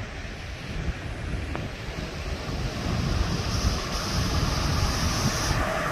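Sea surf washing onto a beach, with wind buffeting the microphone; a brighter hiss of wash rises in the second half and then drops away near the end.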